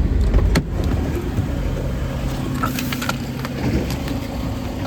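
2013 Nissan Rogue's 2.5-litre four-cylinder engine idling just after a cold start in sub-freezing weather, running a little rough. A few sharp clicks sound over the steady engine hum.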